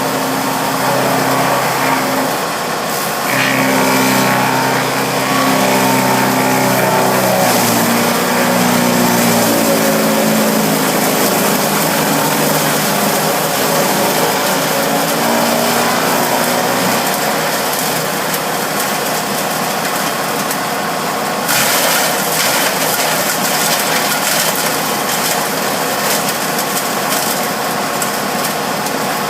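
Bearcat wood chipper running with its engine going steadily and loud. About two-thirds of the way in the sound turns harsher, with added hiss and rattle.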